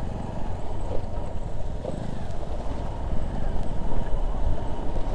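Motorcycle engine running at low speed with a fast, even putter, ridden over a rough, unpaved dirt road. It gets louder in the second half.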